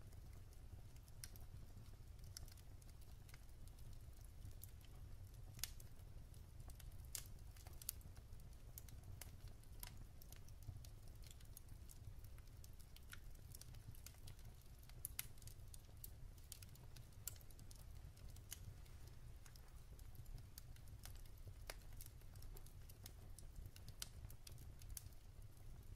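Wood fire in a fireplace crackling softly: faint, irregular snaps and pops of the burning logs over a low, steady rumble.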